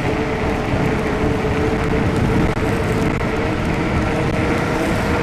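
Fat-tire e-bike riding on a wet road: a steady rumble of wind and tyre noise with a steady whine.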